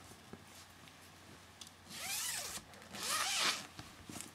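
A zipper pulled in two quick strokes about two and three seconds in, its pitch rising and falling with the pull.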